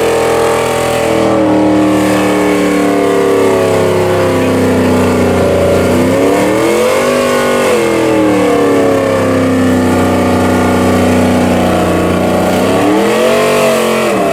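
A car or truck engine running hard, held at a steady speed, then revved up and back down about halfway through and again near the end.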